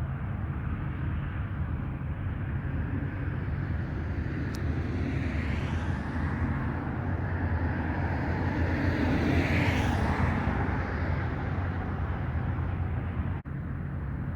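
Propeller airplane engine passing by, growing louder to a peak about nine to ten seconds in, then fading, with its pitch falling as it goes past.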